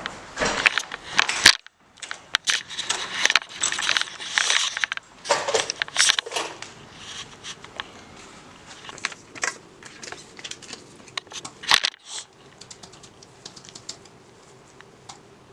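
Handling noise close to the microphone: a handheld camera rustling against clothing and clicking and knocking as it is moved and set down, dense for the first twelve seconds or so, then only light scattered ticks.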